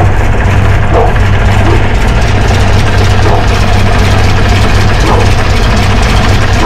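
Ford Mustang 5.0 V8 idling steadily, heard from underneath the car.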